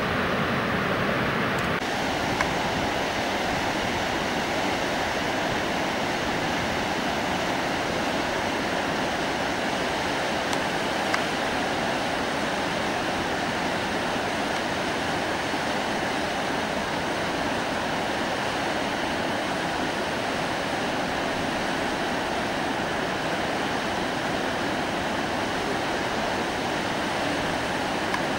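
Steady rush of fast-flowing river water, with a shift in its tone about two seconds in.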